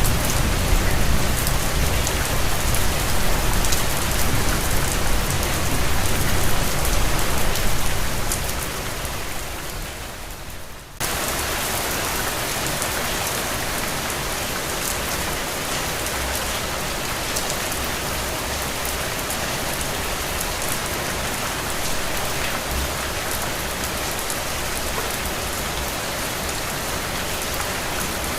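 Steady rain falling, with a low rumble under it in the first part that fades away. About eleven seconds in, the sound cuts abruptly to an even, slightly quieter rain.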